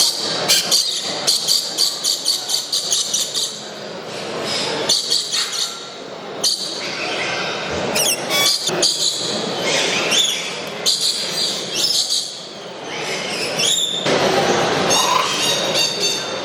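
Many caged show birds chirping and calling in quick runs of short, high calls, with a few sliding calls, over the murmur of visitors' voices in a large hall.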